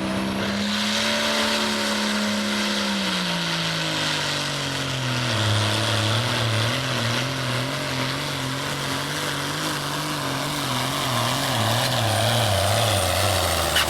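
Case 970 hot farm pulling tractor's engine running hard. Its pitch holds steady for about three seconds, then sags as the engine is pulled down, and from there it wavers up and down about once or twice a second.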